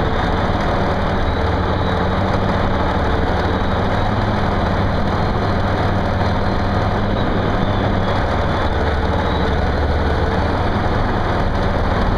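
Heavy earthmoving machine's diesel engine running steadily under a constant low drone, with no change in speed.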